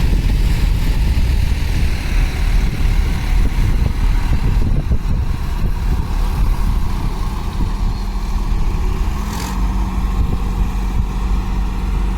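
Heavy diesel vehicle engine running, a loud steady low rumble, with a brief sharp sound about nine and a half seconds in.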